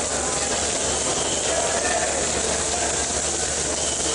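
Steady hiss of heavy monsoon rain.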